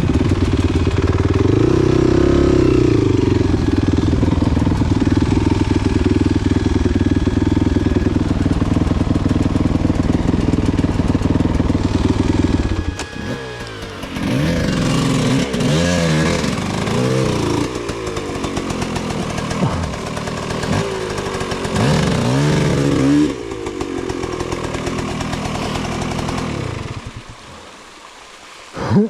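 Enduro motorcycle engine running at a steady pitch for about the first half, then revving up and down repeatedly. It drops away near the end.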